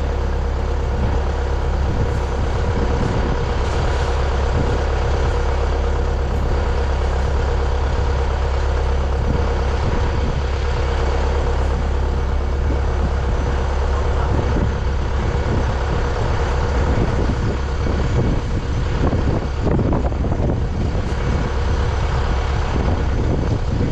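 Heavy farm vehicle engine running steadily, a constant low drone with a steady whine over it, and a few knocks and rattles in the last several seconds.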